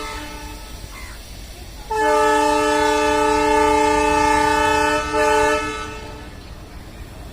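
Indian Railways locomotive horn sounding a chord of several tones: the end of one blast as it starts, then a long blast of about three seconds followed at once by a short one.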